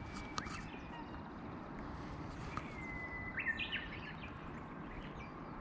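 A small bird calling: a thin held whistle about three seconds in, followed at once by a quick run of sharp chirps, over a steady low outdoor background noise.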